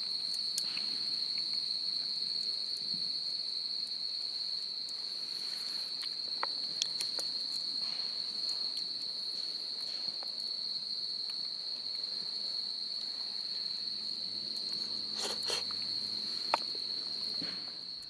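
Insects trilling: one continuous high-pitched trill, with a few scattered sharp clicks.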